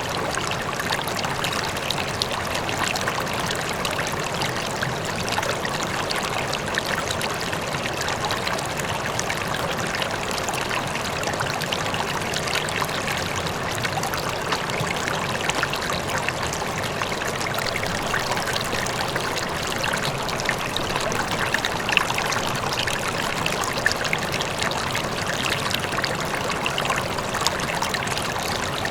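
River flowing steadily over rocks, a continuous rushing and splashing with small bubbling flecks, and the faint sound of a distant waterfall under it.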